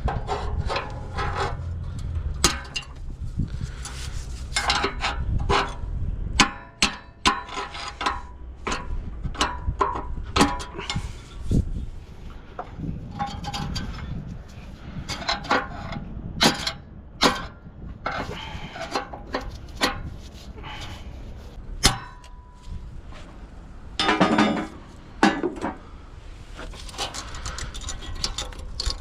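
Hand tools clinking, tapping and knocking on metal engine parts during disassembly, in many short irregular clicks. A low hum underneath stops about six seconds in.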